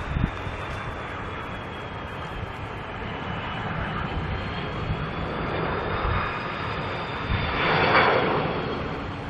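A jet airliner passing, its engines' high whine rising in pitch over a steady rush of engine noise, growing louder to a peak about eight seconds in and then easing.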